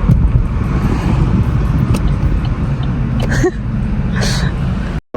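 Steady low rumble of road and engine noise inside a moving car's cabin, which cuts off abruptly near the end.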